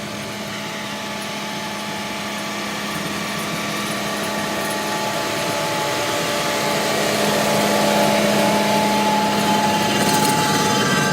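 John Deere 6140R tractor running steadily with its rotary tiller working, a steady drone with a held whine, growing louder over the first eight seconds or so.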